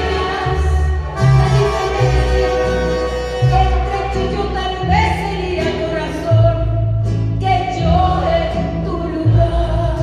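Live Latin band music with violins over a moving bass line, with a singing voice.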